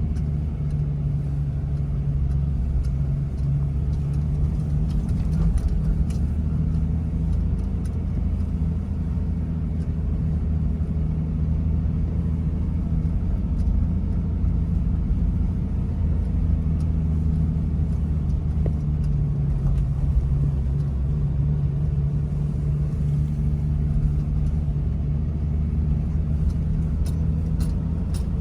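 Toyota Land Cruiser 70 driving at a steady pace, its engine making an even low drone that shifts only slightly in pitch.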